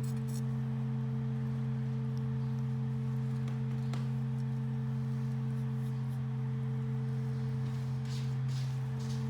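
A steady low hum of several unchanging tones, with a faint click about four seconds in and light rustling near the end.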